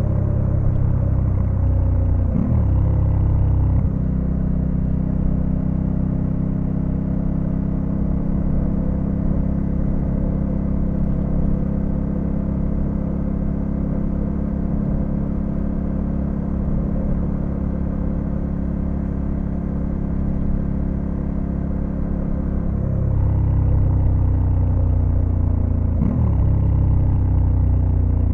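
2022 Honda Africa Twin CRF1100L's parallel-twin engine running under way at a steady cruise. Its note dips briefly with a gear change about two and a half seconds in, then grows louder as it accelerates from near the end, with another brief dip in the note just after.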